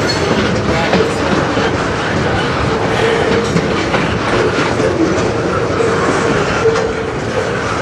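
Freight train cars rolling past at close range, their steel wheels clattering steadily over the rail joints.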